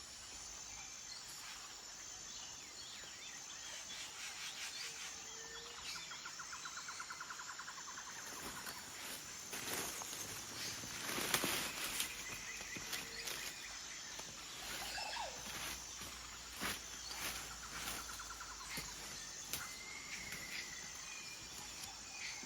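Forest ambience: a high insect chirring in short, evenly repeated pulses, with scattered bird calls and a rapid trill heard twice. Brief crackles and rustles come near the middle.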